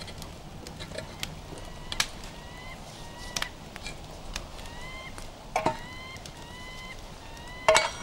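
A bird calling again and again in short rising chirps over a soft outdoor hiss, with four or five sharp clicks or snaps in between, the loudest near the end.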